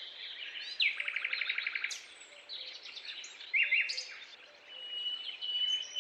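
Birds chirping and calling over a soft background hiss, with a fast trill of rapid notes lasting about a second near the start.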